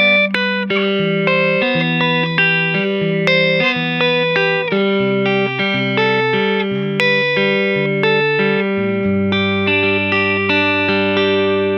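Clean electric guitar, a 2011 Gibson ES-335, played fingerstyle: a flowing run of single picked notes and chord tones, ending about nine seconds in on a low note and chord left to ring.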